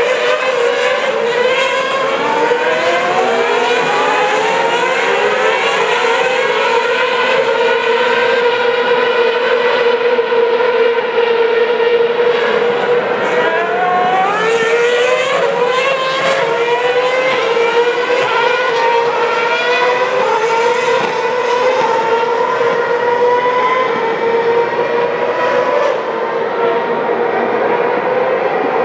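Formula One cars racing on the circuit, several engines heard at once, their pitch climbing again and again through upshifts and dropping back as they brake and pass.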